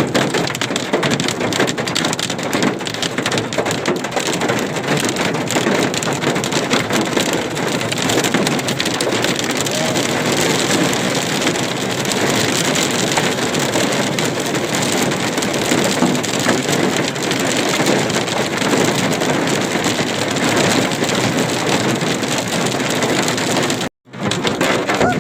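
Heavy hail pelting down: a loud, dense, continuous clatter of hailstones striking surfaces. It cuts out for a moment near the end, then resumes.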